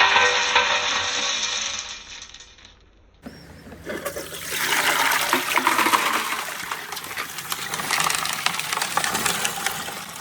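Water rushing along a handmade marble run with small clicks of marbles in it; the sound cuts abruptly about three seconds in to another stretch of running water, this one with many small clicks.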